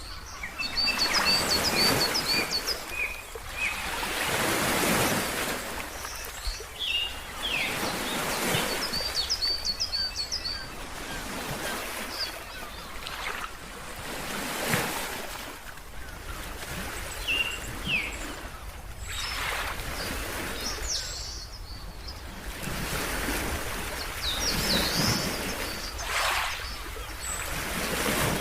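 Ocean waves washing in and out in swells every few seconds, with birds chirping over them in short runs of quick high notes, heard several times.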